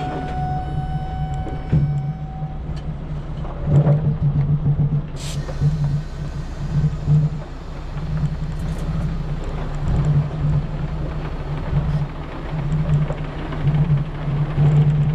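Semi truck's diesel engine droning steadily while driving. A held tone with overtones fades out in the first couple of seconds.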